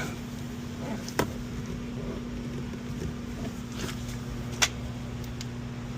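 Two short, sharp clicks from the car door's interior trim being handled, a light one about a second in and a louder one near the end, over a steady low hum.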